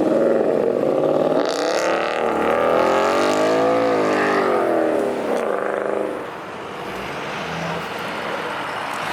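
A high-powered car's engine revving hard as it pulls away under full throttle, its pitch climbing and falling in several surges, then dropping off about six seconds in.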